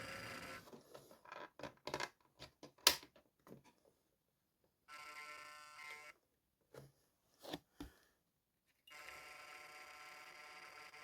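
Bachmann Class 47 model diesel locomotive running: its small electric motor gives a steady whine in three stretches, cutting off between them. In the gaps come scattered sharp clicks and ticks, the loudest about three seconds in.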